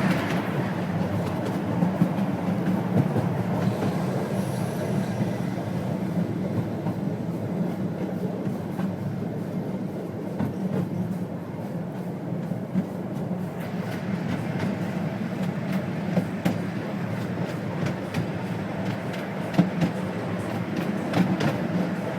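12-inch gauge steam train running along the track: a steady rumble of wheels on rail, with scattered clicks over the rail joints. The higher hiss fades for a stretch in the middle and then returns.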